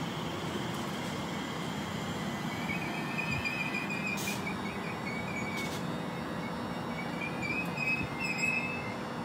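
Class 345 electric multiple unit running past over a steady rumble, its wheels squealing in a wavering high pitch from about two and a half seconds in and again near the end, with two sharp clicks in between.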